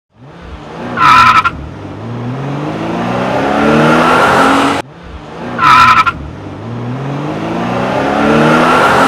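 Recorded race car sound effect played twice in a row: a short, loud tyre screech, then the engine rising steadily in pitch as it accelerates.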